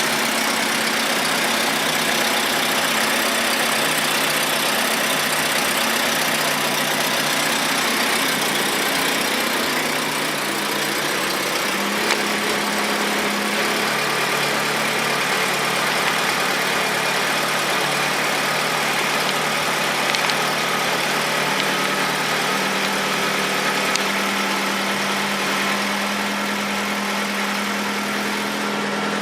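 Nissan SR20DET turbocharged four-cylinder engine idling steadily, its idle pitch stepping slightly a few times.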